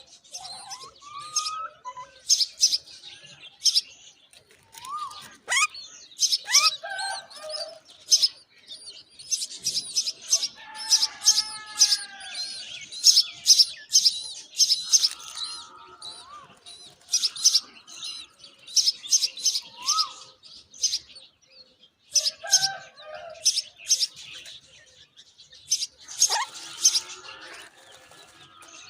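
Myna birds, including chicks, chirping in rapid bursts of short, high calls, with occasional lower whistled calls that slide up and down in pitch.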